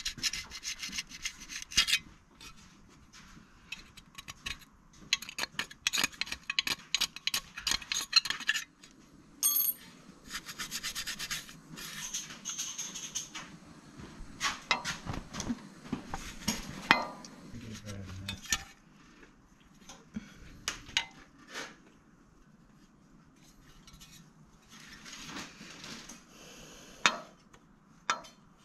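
Hand work on generator parts: irregular scraping and rubbing against metal, broken by clicks, clinks and small knocks as parts are handled and fitted.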